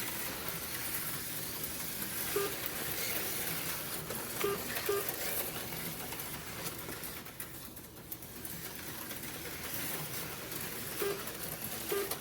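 HO-scale slot cars running on the track: a steady hiss from their small electric motors and pickup shoes on the rails. Short electronic beeps come about five times, two of them close together.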